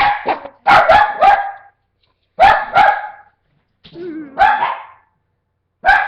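A small dog barking: sharp, loud barks in quick groups of two or three, with a brief growl just before one group.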